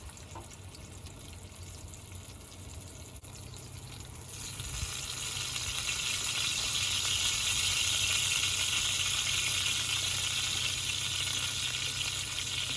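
Ribeye steak sizzling in a hot pan: a faint hiss at first, jumping to a loud, steady sizzle about four seconds in. A low steady hum runs underneath.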